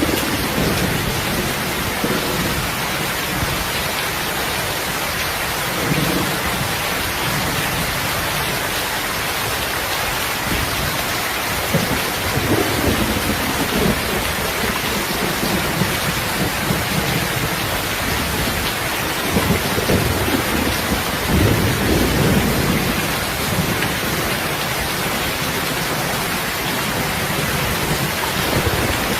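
Steady rain pouring, with low rolls of thunder swelling up several times, the strongest about three-quarters of the way through.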